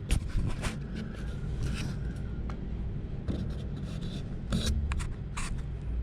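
Handwork at an air-conditioning condensate pump: rubbing and scraping noises with several sharp clicks, over a steady low hum.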